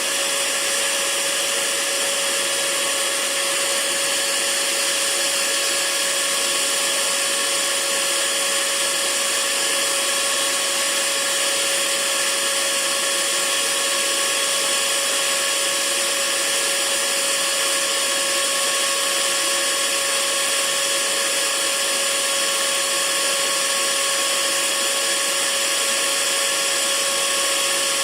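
Hair dryer running steadily: an even rushing hiss with a constant motor whine, unchanging throughout.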